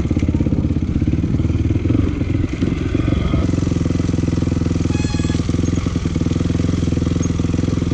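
Honda CRF450 dirt bike's single-cylinder four-stroke engine running, its note shifting a little about two to three seconds in and then holding steady.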